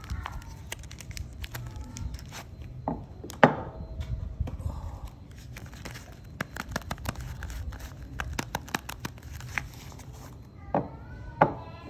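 Soap packaging being unwrapped and handled: crinkling and tearing with many small sharp clicks and crackles.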